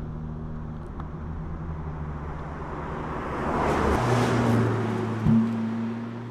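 Mercedes-AMG SL 43's 2.0-litre turbocharged four-cylinder engine driving past. The rush of engine and tyre noise swells to its loudest about four seconds in, then the engine note drops as the car goes by, with a brief loud bump a little after.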